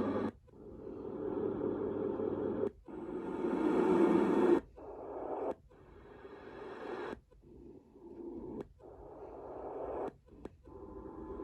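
Hotmoon Cocoon sound machine's speaker playing its recorded fan sounds, switching to a different steady fan noise about every one to two seconds as the sound button is pressed. Each noise cuts off briefly and the next one swells back in.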